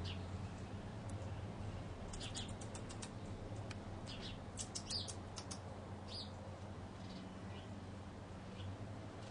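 Hummingbirds chipping: quick runs of short, sharp, high chip notes, bunched in the middle of the stretch, with single notes here and there.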